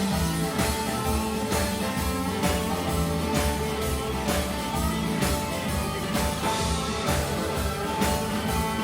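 A live rock band playing an instrumental passage: electric guitar and bass over drums keeping a steady beat.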